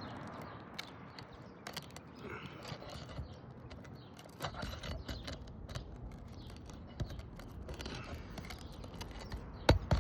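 Brittle, dried-out roof shingles crackling and scraping as they are worked on and stepped on, with scattered small clicks and two sharp knocks near the end.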